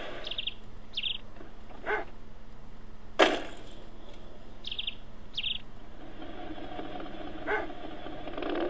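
A bird chirping: short high chirps in pairs, one pair at the start and another about four and a half seconds later. Between them come a few short knocks, the sharpest about three seconds in and the loudest sound here.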